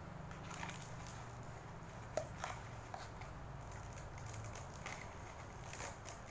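Light clicks and crackly rustling of dry instant noodles being handled and pulled apart in a plastic bowl, with one sharper click about two seconds in, over a low steady hum.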